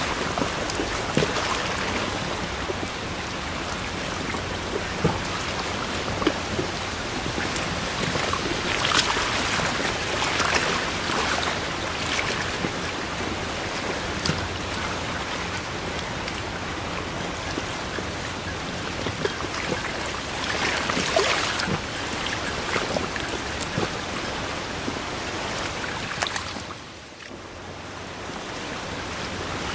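Forest ambience of steady water noise, with scattered small ticks and drips over it. It drops away briefly about three seconds before the end, then returns.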